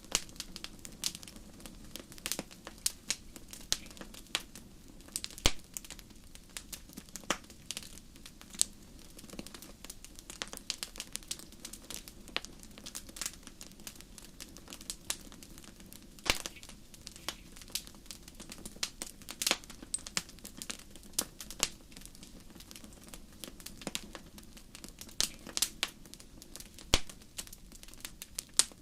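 Wood campfire crackling: a dense, irregular run of small pops and snaps, with a few louder sharp snaps, over a steady low rush of the flames.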